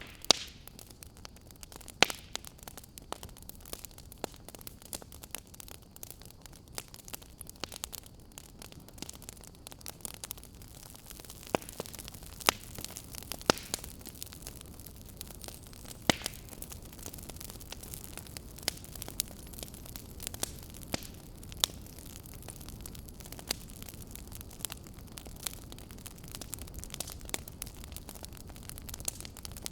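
Wood fire crackling in a fireplace: sharp, irregular pops and snaps over a steady low hiss and rumble of the burning fire.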